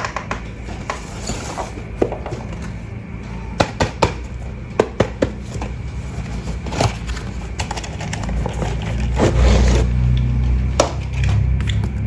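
Handling noises from a toy being unboxed: a scattered series of sharp clicks and knocks over a low hum that swells about eight seconds in.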